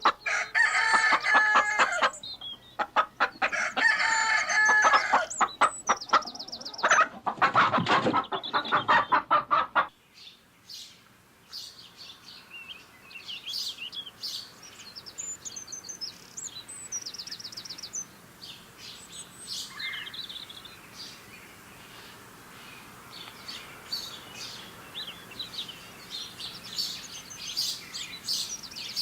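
A rooster crowing twice, each crow about two seconds long, with chickens clucking rapidly around it. About ten seconds in, this cuts off and gives way to quieter, scattered high-pitched chirping of small birds.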